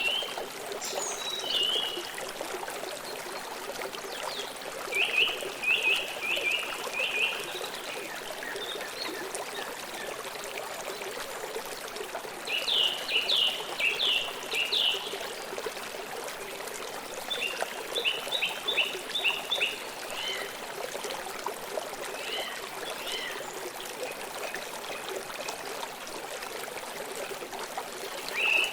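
River water flowing steadily over stones. Several times, runs of quick, high repeated chirps sound over it, each run a couple of seconds long.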